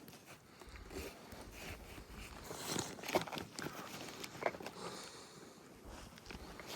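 Faint scattered rustles and light knocks over a low background, with no voice.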